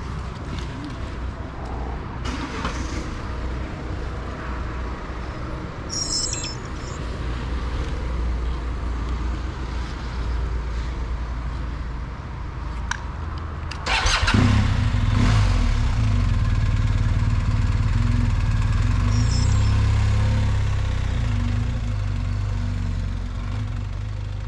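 Motorcycle engine running. About fourteen seconds in it suddenly gets louder, with a strong steady engine note, and stays loud.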